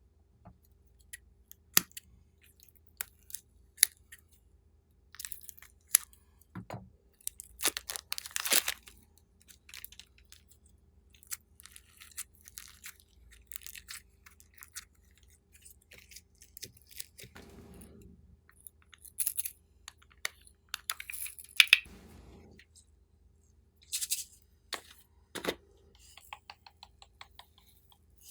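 Slime being kneaded and stretched by hand: irregular sticky clicks and snapping pops, with a couple of duller squishes.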